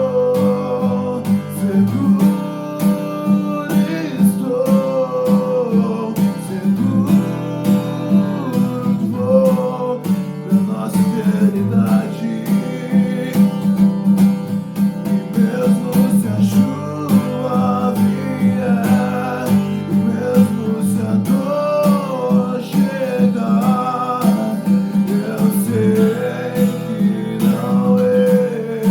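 A song: acoustic guitar strummed in a steady rhythm, with a voice singing a wavering melody over it.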